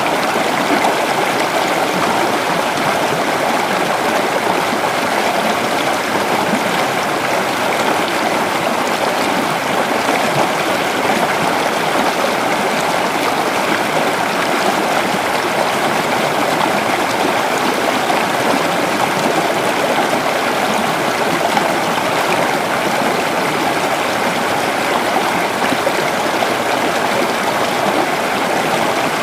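A creek running steadily over rocks, with a continuous babbling rush of water.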